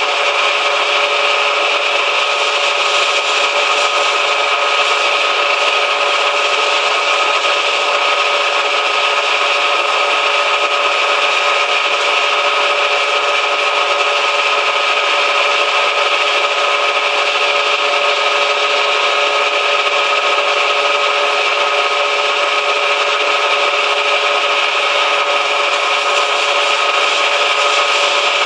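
Manual lathe running steadily while machining, a constant hiss with a steady whine of a few held tones over it, unchanging throughout.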